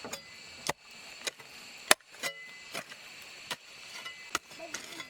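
Wooden floor planks being hammered: about nine sharp, uneven knocks, roughly one every half second to second, with the loudest about two seconds in.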